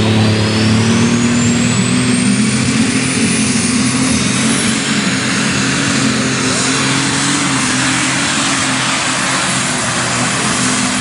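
Unlimited super stock pulling tractor with a Brett Long alcohol engine running hard under load, loud and steady. A high turbocharger whine climbs over the first three seconds and then holds.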